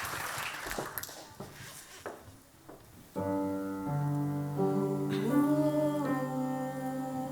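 Audience applause dying away to a few last scattered claps, then about three seconds in a held chord of sustained notes begins, with one melody note sliding up over it: the soft opening of the next concert piece.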